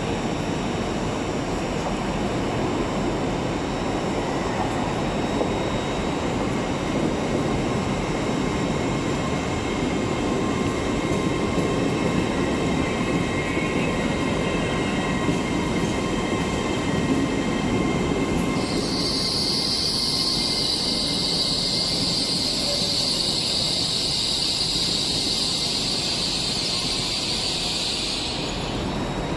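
TransPennine Express train running slowly along the platform with a steady rumble. About two-thirds of the way in, a loud high-pitched squeal from the train begins and holds until shortly before the end.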